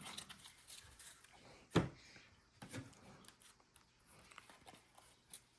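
Football trading cards being handled and flipped through: soft rustles and small clicks, with one sharper tap about two seconds in.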